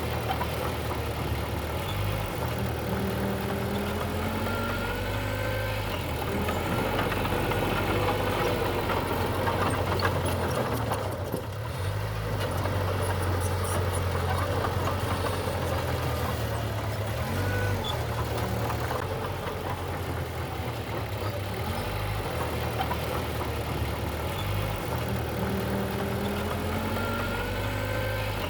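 Heavy diesel engine of earthmoving machinery running steadily, its pitch stepping up and down every few seconds. Faint rising and falling whines sit above it.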